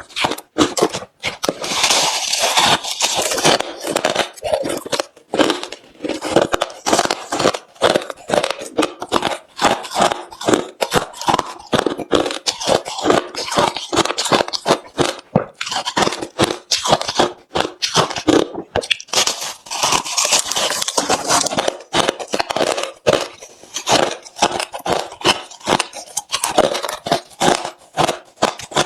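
A person chewing hard refrozen crushed ice close to the microphone: rapid, irregular crunches one after another, with denser, louder bursts of crunching a couple of seconds in and again about twenty seconds in.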